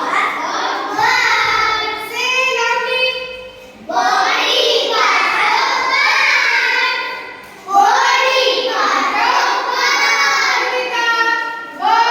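A group of young children chanting together in a sing-song voice, in phrases of about four seconds each with short breaks between them.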